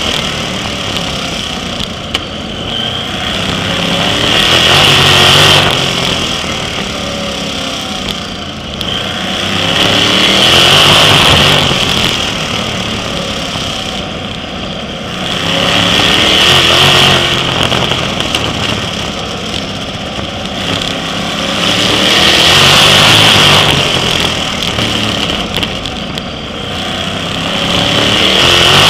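Sprint car V8 engines racing on a short oval, rising loud and easing off again about every six seconds as the throttle is opened and lifted.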